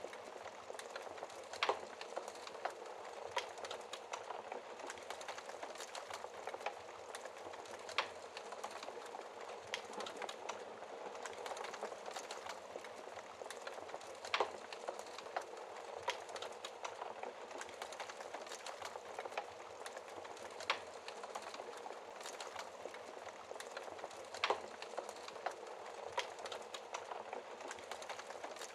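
Wood fire crackling in a fireplace: a steady soft hiss with irregular sharp pops and snaps, a few louder ones scattered through.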